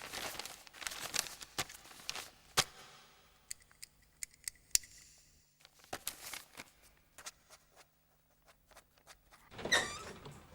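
Pen scratching on paper in short irregular strokes, with small taps and paper rustles, as someone writes by hand. A brief louder sound comes near the end.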